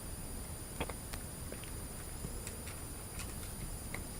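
Quiet outdoor ambience: a steady high-pitched insect drone, with a few faint, short clicks scattered through it.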